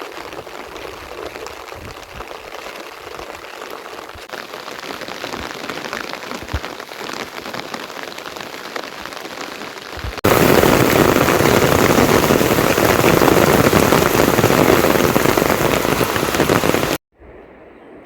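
Rain falling, a steady patter of drops. About ten seconds in it jumps abruptly to much louder, denser rain, which cuts off suddenly near the end.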